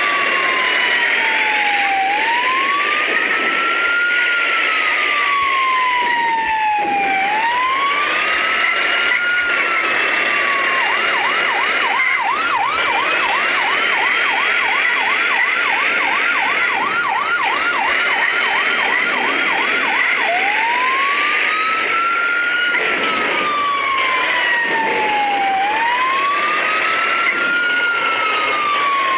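Emergency-vehicle siren in a wail, rising and falling about every five seconds. About eleven seconds in it switches to a fast yelp of about three sweeps a second for some nine seconds, then goes back to the wail. A fainter, higher gliding siren sounds over it.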